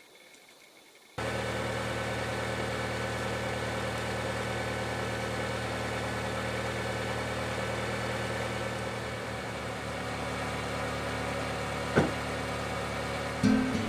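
Car engine idling steadily, coming in abruptly about a second in, with a single sharp knock near the end.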